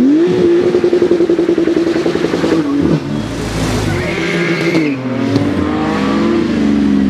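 Porsche 911 GT2's twin-turbocharged flat-six engine at high revs. The pitch climbs steeply, holds high for a couple of seconds, dips briefly about three seconds in, then falls away slowly as the car comes off the throttle.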